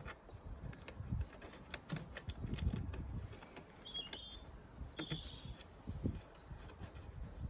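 Scattered light clicks and knocks of plastic car door trim being handled and pressed into place, with a few faint bird chirps midway.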